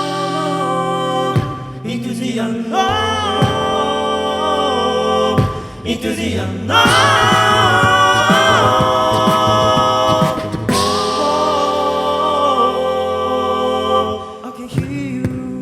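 All-male a cappella group singing held chords in close harmony over a low bass voice, the chords changing every few seconds. A few short clicks come near the end.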